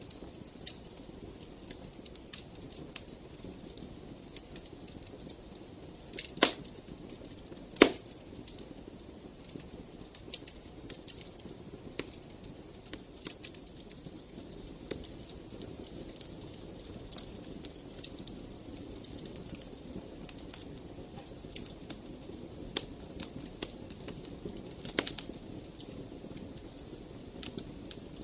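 Wood fire in a fireplace crackling: irregular sharp pops and ticks over a low, steady rush of flame, with two louder pops about a quarter of the way in.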